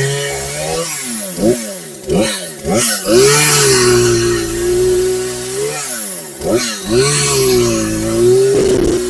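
Cheap two-stroke gas chainsaw held at full throttle in stretches of a few seconds, the engine pitch dropping and quickly climbing back several times in between as the throttle is let off and squeezed again while cutting up tree limbs.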